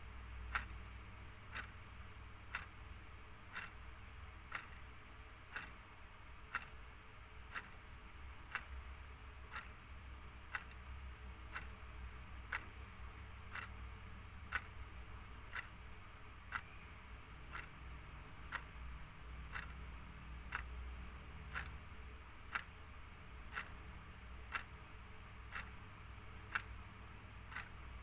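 Clock ticking steadily at about two ticks a second, every other tick louder, in a tick-tock pattern, over a faint low hum.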